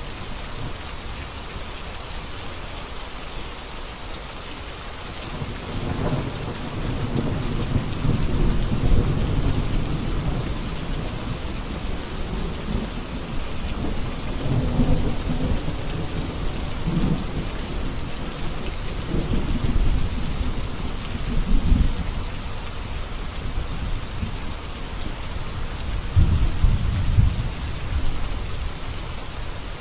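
Steady rain with rolling thunder. Low rumbles build from about five seconds in and swell and fade several times over the rain.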